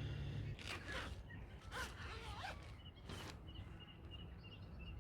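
Tent zipper pulled in several short rasping strokes, with small birds chirping in the background.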